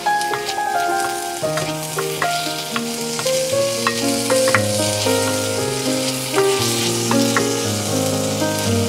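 Chopped raw mango and shallots sizzling in coconut oil in a steel pan as they are stirred with a wooden spatula, with a few sharp taps of the spatula against the pan. Instrumental background music plays steady, changing notes.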